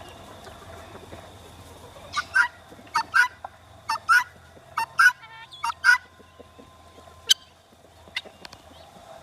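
Domestic poultry calling: loud, harsh two-note calls repeated about once a second for several seconds, then two single sharp notes.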